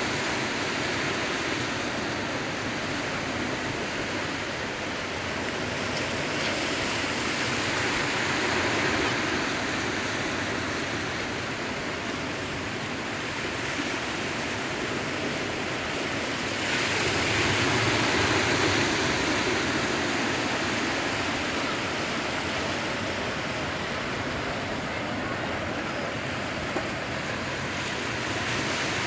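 Sea waves washing in steadily, a continuous rush that swells louder every several seconds as waves break.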